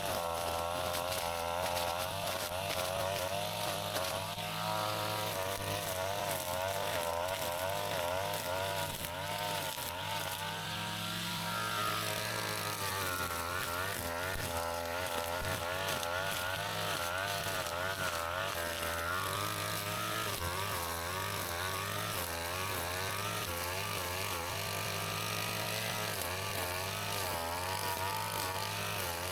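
Brush cutter engine running fast, its pitch wavering up and down continuously as the load on the cutting head changes.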